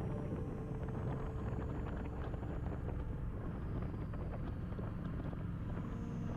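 Kawasaki Vulcan motorcycle engine running steadily under way, a dense pulsing rumble, with wind buffeting the helmet- or bike-mounted GoPro microphone.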